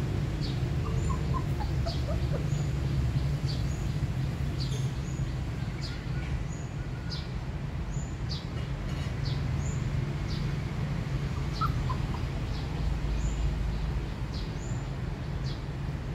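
A bird chirping, short high notes about one or two a second, over a steady low rumble.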